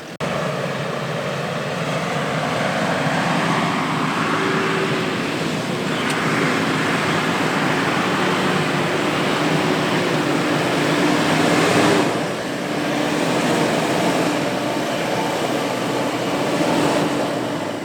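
A diesel 4x4 SUV's engine running hard under load, its note rising slightly over a broad rushing noise as it pushes through soft ground, easing briefly about twelve seconds in.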